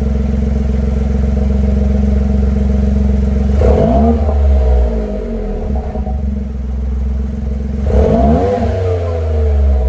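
Honda S660's 658 cc turbocharged three-cylinder engine idling through a SEEKER Trident aftermarket muffler, revved sharply twice, a few seconds in and again about four seconds later, its pitch rising quickly and falling back to idle each time.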